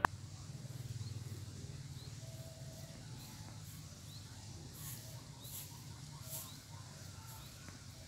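Outdoor nature ambience: faint, short bird chirps scattered through, over a steady low hum. From about halfway, a high pulsing sound repeats roughly every three-quarters of a second.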